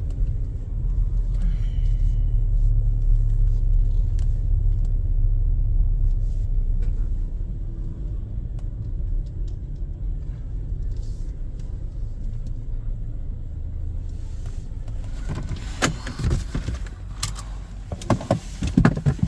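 Low, steady road rumble of a moving vehicle's engine and tyres, heard from inside the cabin, easing off a little partway through. Several short knocks and clicks come in the last few seconds.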